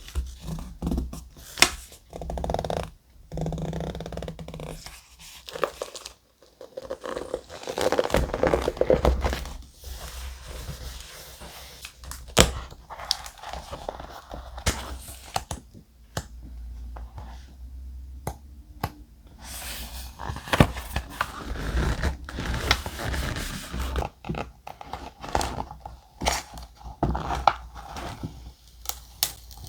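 Thick paper being handled close up: rustling, tearing and scraping, with many scattered sharp taps and small knocks.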